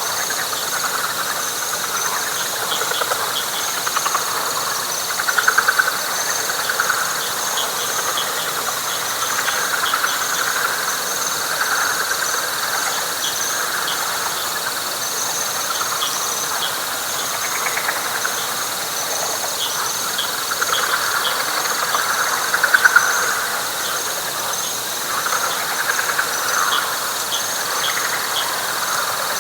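Night chorus of frogs and insects in a wet flatwoods swamp: waves of frog trilling that swell and fade over a steady, high insect drone, with rapid insect pulsing and faint ticking above it.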